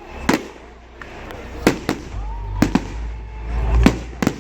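Fireworks going off at a display: about five sharp bangs roughly a second apart, with a low rumble from the launches and bursts between them.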